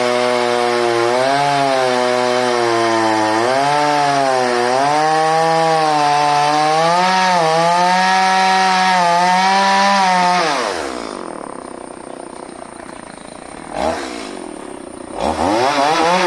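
Two-stroke chainsaw running at high speed, its pitch rising and falling under load, as when cutting wood. About ten seconds in the throttle is released and it drops to idle. It gets a short blip of throttle, then revs up again near the end.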